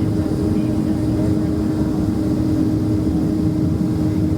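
Steady cabin noise aboard a Boeing 767-300ER in flight: a deep, even rumble of engines and airflow with a constant low hum.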